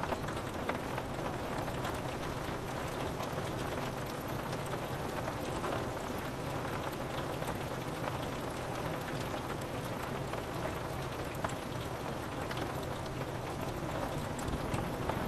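Steady rain falling on window glass, an even hiss with scattered small drop ticks.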